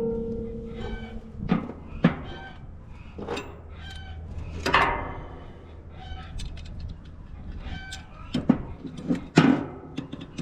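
Chickens clucking now and then, with a few sharp metal clinks between the calls; the tail of background music fades out at the start.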